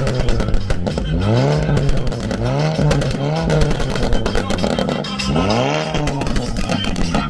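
A racing engine idling and being revved in short repeated blips, its pitch rising and falling about every second or so.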